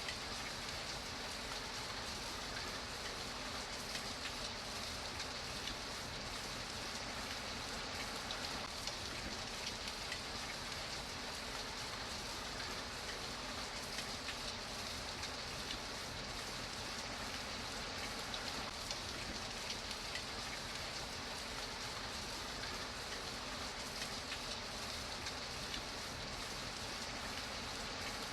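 Steady rain falling, an even hiss flecked with fine ticks of drops, unchanging throughout.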